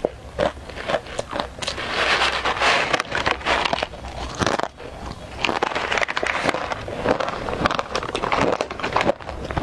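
Close-miked crunching and chewing of crisp, thin fried snack strips eaten straight from the bag: a dense, steady crackle of small bites.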